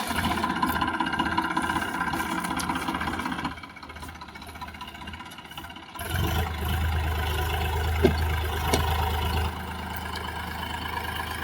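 Massey Ferguson 7250 DI tractor's diesel engine running while hauling a heavy load. The engine sound drops away about three and a half seconds in. It comes back with a deeper, louder hum at about six seconds and eases back near the end.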